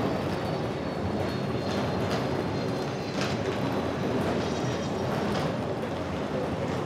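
Train running: a steady rumble with a few irregular clicks and rattles over it.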